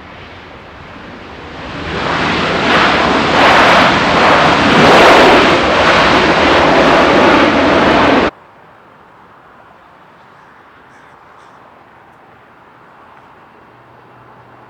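Jet engines of a Turkish Airlines Boeing 777 at takeoff power during its departure roll, a loud even roar that swells about two seconds in. It cuts off suddenly about eight seconds in, leaving a low, steady background hiss.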